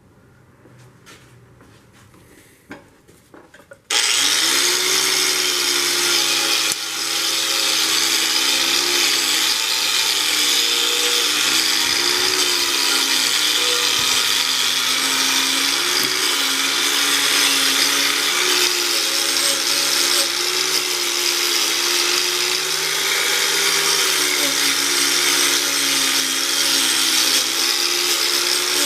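Electric grinder switched on about four seconds in and running steadily on metal, with a strong hiss and a motor pitch that sags briefly now and then under load. A few faint clicks come before it starts.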